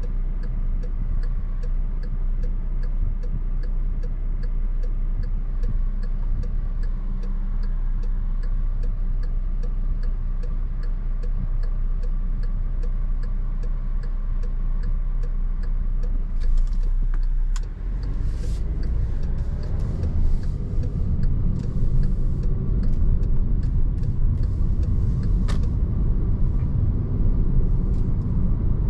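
Car engine running inside the cabin with a turn signal ticking about twice a second; about seventeen seconds in the ticking stops and the engine and road noise grow louder as the car pulls away.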